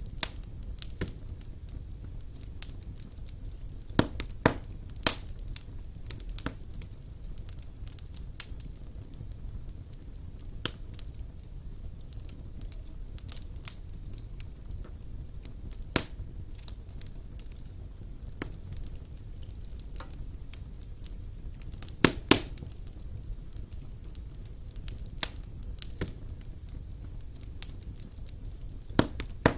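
Wood fire burning in a fireplace: a steady low rumble of the flames with scattered sharp crackles and pops, a few louder pops in quick pairs about four seconds in and again about two-thirds of the way through.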